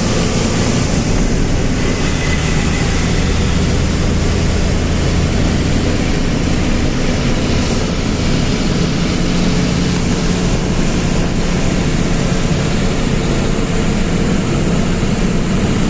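Steady drone of a truck's engine running, with road noise, heard from inside the cab.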